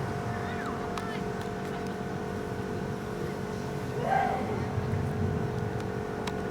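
Steady outdoor background rumble with a faint constant hum, and a brief distant shout about four seconds in.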